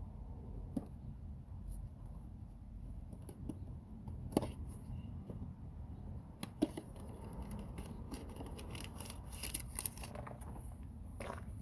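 Low steady background rumble with a few light clicks and knocks scattered through it; the sharpest come at about four and a half and six and a half seconds, with a run of small ticks later on.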